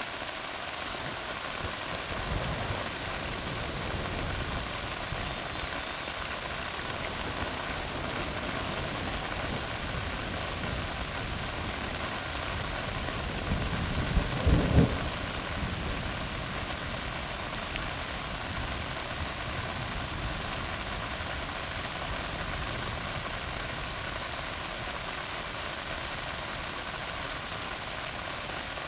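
Steady rain falling on a tar road, an even hiss of drops on asphalt. About halfway through, a brief low rumble of thunder with a few sharp peaks rises above the rain.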